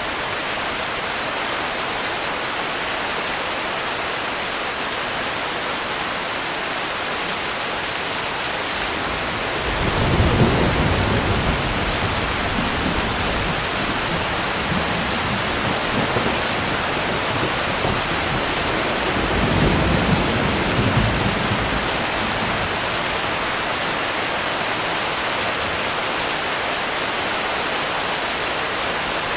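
Steady heavy rain with rolling thunder. A deep rumble comes in about a third of the way through, swells a second time about two-thirds through, then dies back to rain alone.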